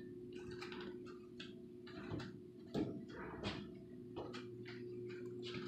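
Irregular light knocks and taps on a wall, tried spot by spot to hear where it sounds hollow, over a steady low hum.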